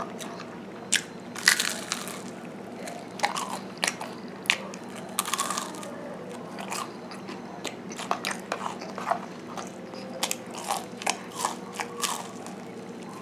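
Crunchy snack stick bitten and chewed close to the microphone: irregular sharp crunches scattered throughout, over a faint steady hum.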